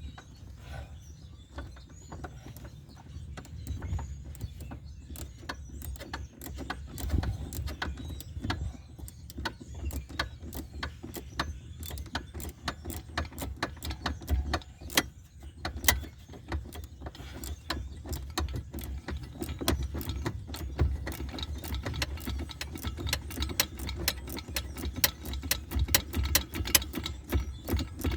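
Ratchet wrench clicking in quick runs as a fastener is turned and tightened, the clicks coming faster in the second half.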